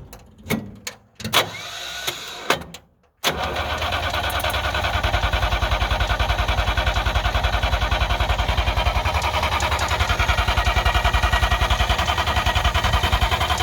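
A few sharp knocks, then about three seconds in the starter begins cranking the 1958 DKW's three-cylinder two-stroke engine in a steady, even pulse. The engine turns over but does not catch.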